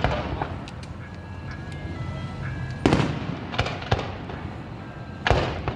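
Aerial firework shells bursting overhead: a bang at the start, a cluster of bangs about three seconds in, and another about five seconds in, each followed by a rolling echo.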